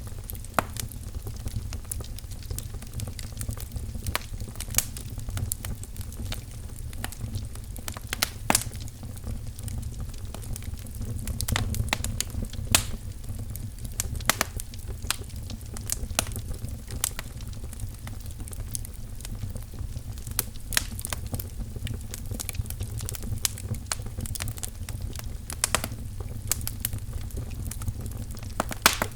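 Wood fire crackling in a fireplace: a steady low rumble with frequent sharp, irregular pops and snaps.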